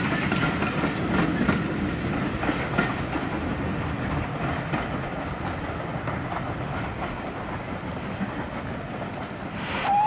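Steam-hauled train running past, its wheels clicking over the rail joints as it slowly draws away. Right at the end a burst of steam hiss and a steam whistle begins.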